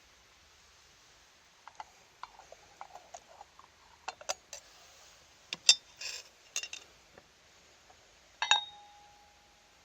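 Metal objects being handled, with a run of small clicks and clinks. About eight and a half seconds in comes one sharper clank that rings on briefly with a clear tone.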